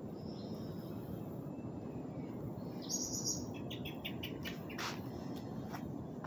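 Bird chirping: a brief high call about three seconds in, then a quick run of short chirps, over a steady low background rumble.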